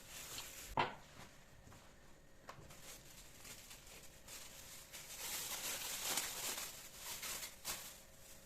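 Objects being handled: a sharp knock just under a second in, a few light clicks, then rustling in the second half.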